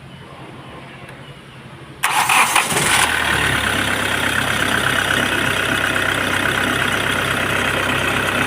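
Hyundai i20 diesel engine started: the starter cranks about two seconds in, the engine catches within a second and settles into a steady idle. The belt drive runs on a new tensioner and two new idler bearings, with no bearing noise left.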